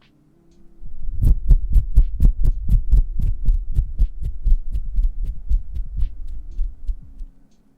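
Hands tapping and patting right against the microphone: quick deep thuds about five a second, starting about a second in and stopping near the end.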